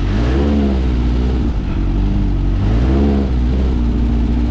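Volkswagen 1600cc air-cooled flat-four engine of a dune buggy revving up and dropping back twice under throttle while driving.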